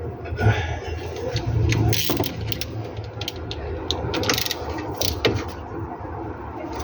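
Hand tools clicking and clinking on metal car parts, irregular short clicks like a ratchet wrench being worked, over a steady low hum.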